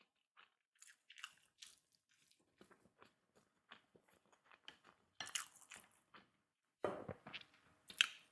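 A person biting and chewing food close to the microphone: a string of short clicks and mouth noises, with louder bites about five seconds in and again around seven to eight seconds.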